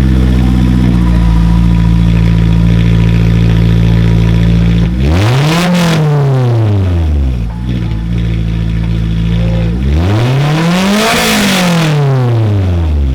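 Honda S2000 AP1's F20C 2.0-litre four-cylinder running with the exhaust removed, so it is loud. It idles steadily, then is revved twice, about five and ten seconds in, each rev rising and falling back to idle over about two seconds.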